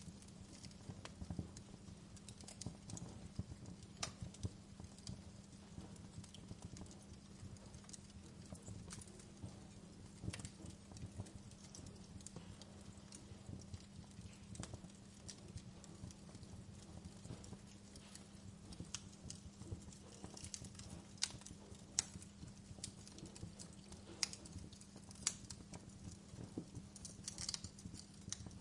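Wood fire burning, with irregular crackles and sharp pops over a low, steady rumble of the flames.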